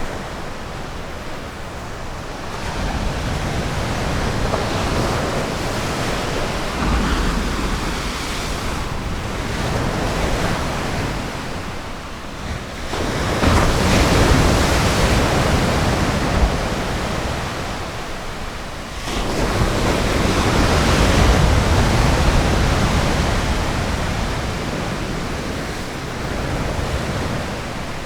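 Ocean surf breaking on a beach, waves washing in as a steady rushing that swells and ebbs in several surges, the loudest about halfway through and again past two-thirds of the way.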